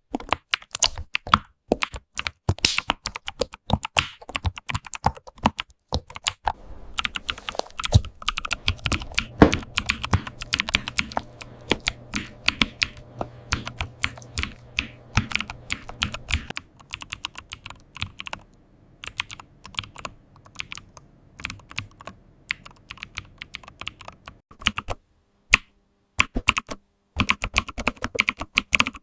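Computer keyboard typing: rapid, irregular clicking keystrokes, several a second, with a brief pause a few seconds before the end.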